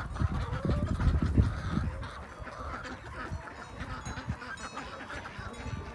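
Domestic ducks quacking and calling, over a low rumble that is loudest in the first two seconds.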